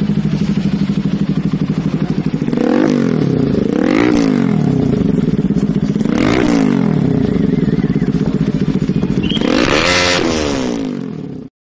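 Bajaj Pulsar NS200's single-cylinder engine through an aftermarket exhaust, idling with a loud, pulsing beat and revved four times. Each rev rises and falls back to idle. The sound cuts off suddenly near the end.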